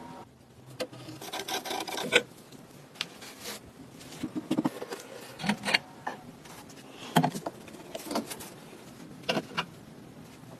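Restoration handwork on a vintage kerosene stove's parts: rubbing and scraping, broken by irregular clicks and knocks.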